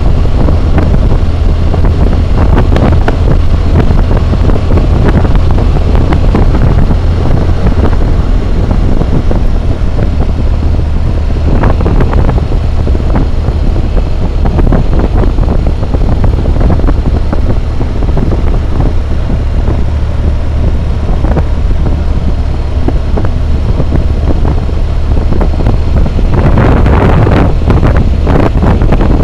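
Loud, steady wind roar on a helmet-mounted camera's microphone while riding a BMW motorcycle at road speed, with the bike's engine running underneath.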